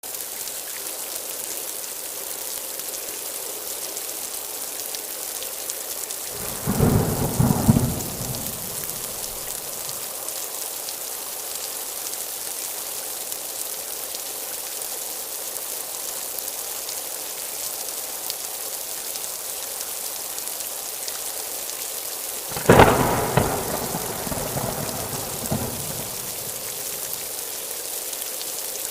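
Steady heavy rain hissing, with two claps of thunder: a rumbling one about a quarter of the way in, and a sharper crack near the end that rolls off over a few seconds.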